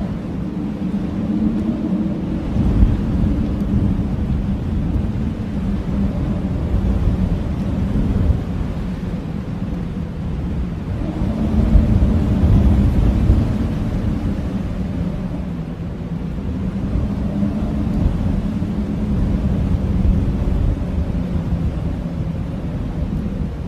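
Howling blizzard wind: a deep, steady rumble with low moaning tones that swell and ebb in gusts, strongest about halfway through.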